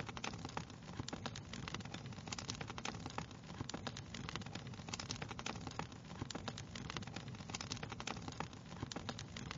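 Wood fire crackling steadily, with dense, irregular pops and snaps over a low rumble of burning.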